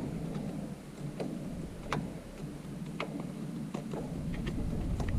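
Irregular small clicks and taps of hand tools working loose the parts of a mini excavator's joystick pilot-control housing, about one a second, over a low rumbling background.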